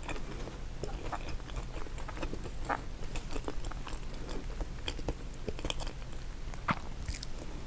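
A person chewing and biting food close to the microphone, with many scattered small clicks of eating.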